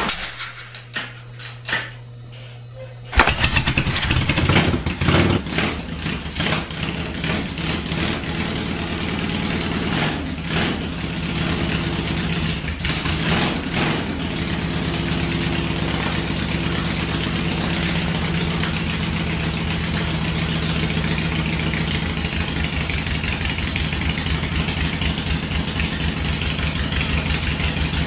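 1968 Harley-Davidson Ironhead V-twin kick-started: the engine catches about three seconds in and runs unevenly with throttle blips. From about fifteen seconds in it settles into a steady idle.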